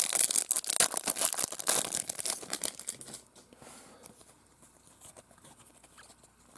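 Foil wrapper of a trading-card pack crinkling and tearing as it is opened, for about three seconds, then it goes quiet apart from a few faint clicks.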